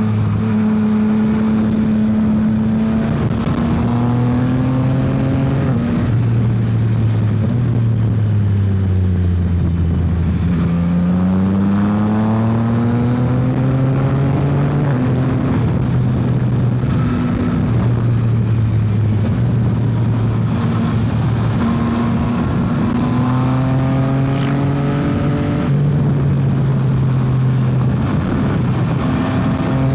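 Yamaha XSR900's three-cylinder engine under hard riding: it revs up through the gears with quick upshifts, falls in pitch as the throttle is closed and it drops down, then pulls hard again, several times over. Wind noise rushes underneath.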